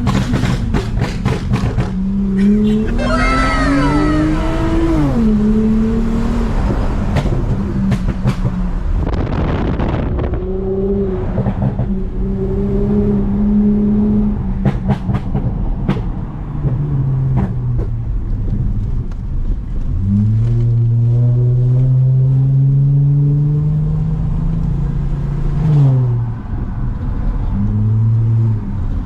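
Toyota Mark X's V6 engine with a modified exhaust, driving under acceleration: its note climbs for a few seconds, drops sharply at a gear change about five seconds in, holds steady while cruising, then climbs again and drops near the end.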